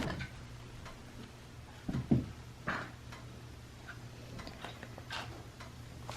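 A few light knocks and clicks over a steady low hum: a thud pair about two seconds in, a sharper click just after, then scattered faint ticks.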